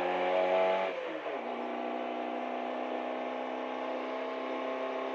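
Fiat 127 Group 2's 903 cc four-cylinder engine, heard from inside the cabin. The revs climb slowly, fall about a second in, and then hold steady at a lower pitch.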